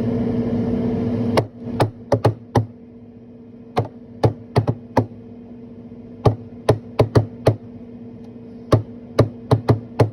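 About twenty sharp taps or knocks in short rhythmic groups of two to five, over a steady low hum. A loud steady rushing noise cuts off suddenly about a second and a half in.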